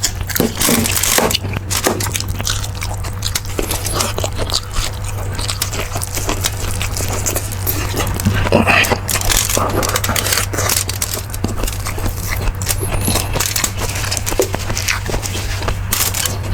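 Close-miked mukbang eating sounds: a person chewing and smacking mouthfuls of beef marrow stew, making irregular wet clicks and smacks, over a steady low hum.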